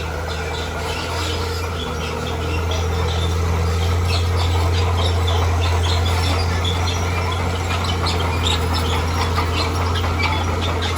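Diesel engine of a heavy earthmoving machine running steadily with a deep drone that grows louder about two seconds in, while birds chirp over it.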